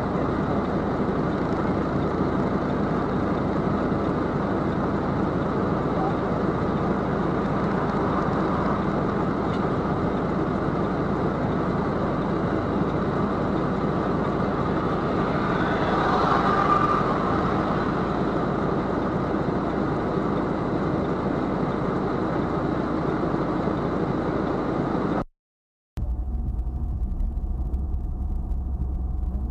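Steady road and engine noise of a car driving, heard from inside the cabin, with a slight swell about sixteen seconds in. Near the end it cuts off abruptly for a moment and a different, quieter road noise follows.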